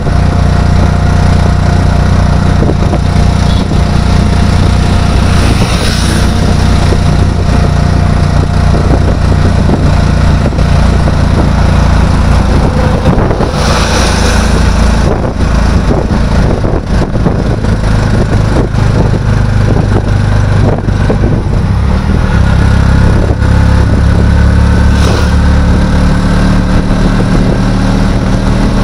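A vehicle engine running steadily while travelling, its low hum carrying through, along with a continuous rushing noise.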